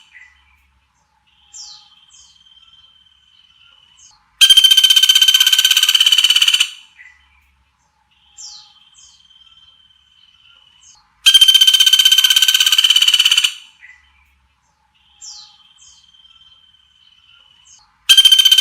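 A looped songbird recording used as masteran tutoring audio. A loud, harsh trill lasting about two seconds comes three times, about seven seconds apart. Between the trills come fainter quick down-slurred whistles and a long, steady, thin whistle.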